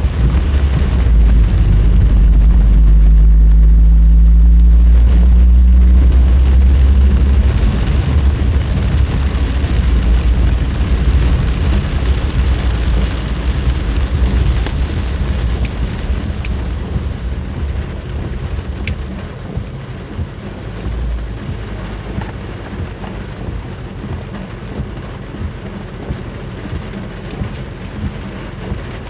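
Deep thunder rumbling loudly for the first several seconds, then slowly dying away, over a steady hiss of heavy rain.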